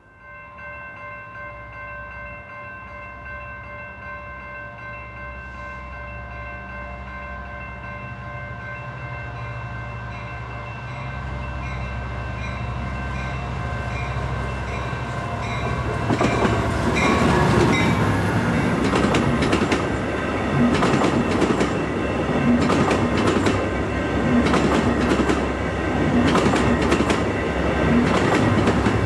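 Amtrak San Joaquin passenger train approaching, a low engine rumble and faint steady hum growing louder, then from about 16 s in passing close with a loud rush and wheels clacking over rail joints.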